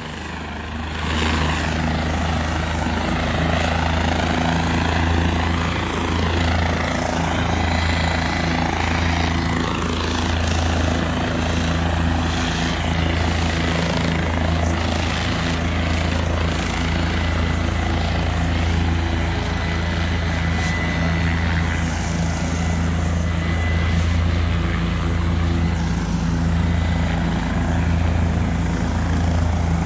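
Helicopter taking off, its rotor and turbine engine running with a steady low rotor beat that grows louder about a second in.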